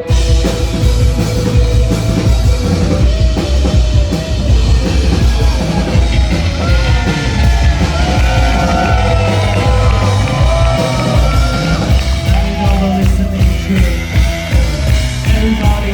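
Live rock band playing loudly, with drum kit and sung, shouted vocals; the full band comes back in hard right at the start after a brief drop.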